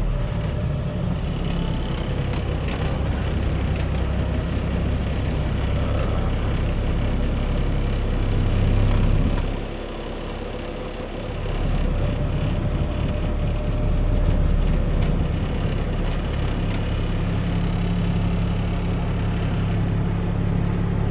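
Loaded truck's engine running steadily, with a low hum. It swells briefly, drops back for a second or two, then rises again, as when the truck pulls up and manoeuvres.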